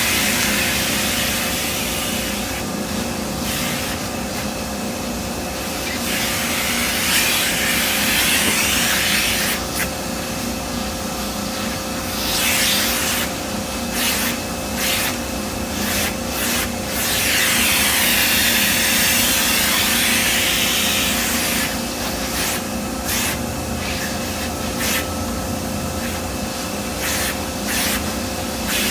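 Vacuum running with a steady motor hum, its rushing hiss swelling and dropping as the nozzle is moved and rubbed over surfaces.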